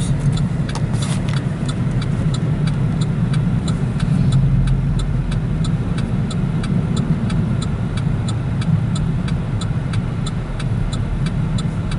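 Car cabin noise while driving on a snow-covered interstate: a steady low rumble of tyres and engine, a little stronger about four seconds in, with a light, even ticking about three times a second.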